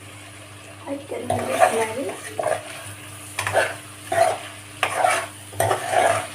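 A spatula stirring and scraping chicken in a pan in repeated strokes, starting about a second in, as the meat fries with freshly added crushed garlic, ginger and chilli, sizzling underneath.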